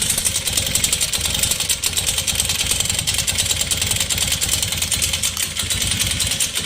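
Italika FT150 GTS single-cylinder four-stroke motorcycle engine idling, with a fast, steady metallic clatter over the running. The noise comes from a damaged piston and a scored cylinder wall; before teardown the mechanic suspected a broken pushrod or a badly out-of-adjustment rocker arm.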